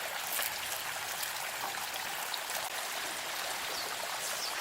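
Steady noise of running water, with a few faint short high sounds over it.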